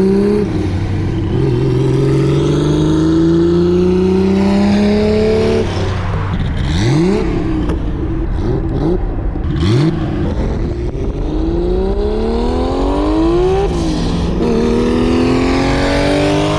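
Turbocharged Nissan RB straight-six in a Datsun 240Z accelerating hard, its engine note climbing in long pulls. The pitch drops sharply about six seconds in and again near fourteen seconds, like gear changes, with a few short rev rises in between.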